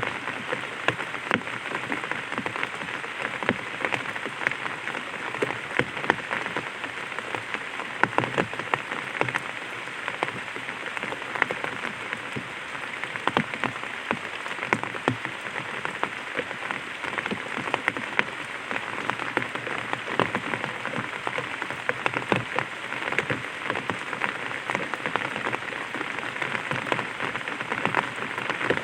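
Light rain falling on an umbrella: a steady hiss of rain with many small, irregular drop taps on the canopy.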